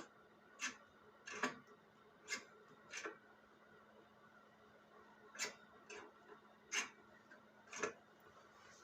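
Irregular light clicks and knocks, about nine over eight seconds, over a faint steady hum.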